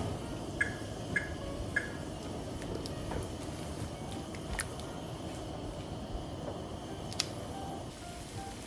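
A pot of salted water at a rolling boil with asparagus blanching in it, giving a steady bubbling hiss. Three short light clinks come about a second in, and a single sharp click comes near the end.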